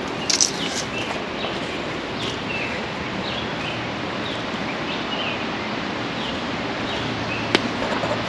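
Birds chirping outdoors: short high notes repeating about once or twice a second over a steady background hiss. A sharp click or snap comes near the start and another near the end, with light rustling.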